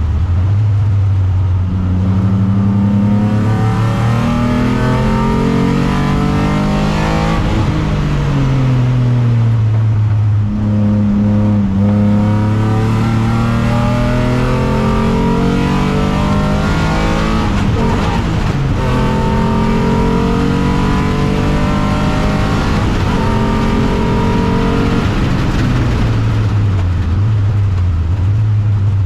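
Alfa Romeo 156 race car's 3.0 V6 engine at racing speed. The revs climb, fall back and climb again several times as the car accelerates and slows.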